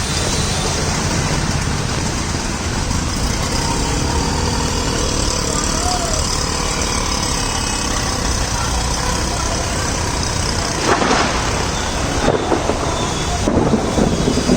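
Heavy rain with road traffic: a steady wash of noise, with a few louder bursts in the last few seconds.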